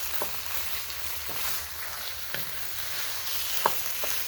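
Chicken pieces sizzling in a hot wok in red curry paste and coconut milk, browning. A few light knocks as the meat is stirred, the sharpest near the end.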